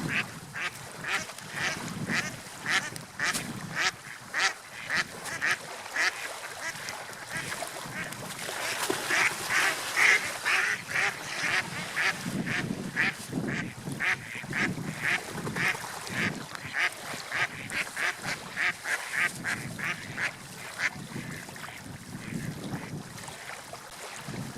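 Birds calling in a long run of short repeated notes, roughly two a second, over a low wash of water and wind.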